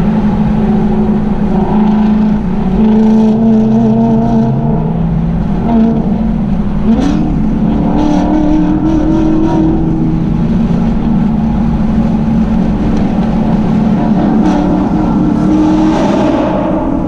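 Car engine running with a steady low drone; its pitch steps up about seven seconds in and drops back near the end.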